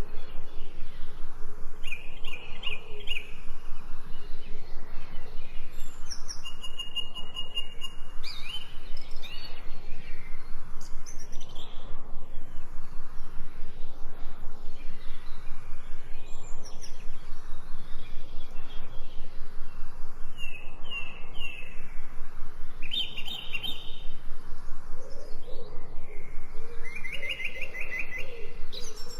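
Songbirds chirping and trilling in short phrases over a steady background hiss with a fast, even pulsing. Low repeated calls come in near the end.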